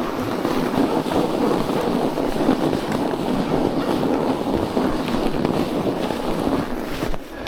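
Bicycle tyres rolling through deep, loose snow: a steady grainy noise that eases off near the end.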